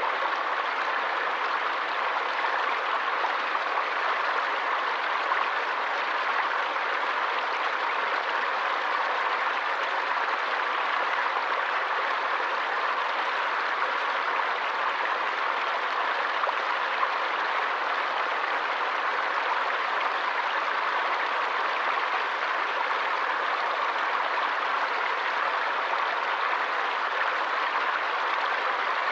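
Water of a forest stream flowing, a steady, unchanging rush.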